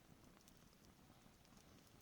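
Near silence: a faint steady hiss with a few faint scattered clicks, the low crackle of a campfire.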